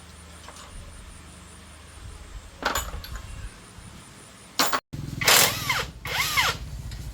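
A small motor runs in two short spurts, its pitch rising and falling each time, over a low steady pulsing, after a few knocks and a brief silence.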